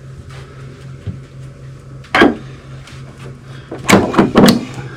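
Loud knocks over a steady low hum: one bang a little over two seconds in, then three more in quick succession near the end, like a door or hatch being handled.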